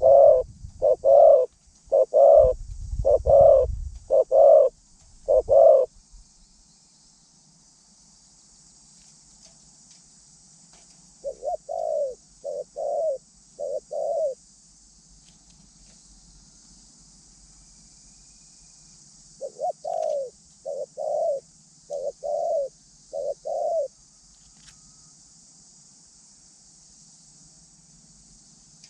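A dove cooing in bouts of short, evenly repeated coo notes: three bouts, the first loudest with a low rumble under it, the next two starting about 11 and 19 seconds in, with quiet gaps between.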